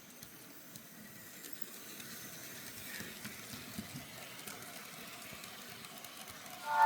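Märklin HO-scale model train running on its track: a faint steady hiss and rumble that slowly grows louder, with light ticks. Near the end a loud sound of several steady tones starts from the locomotive's sound decoder.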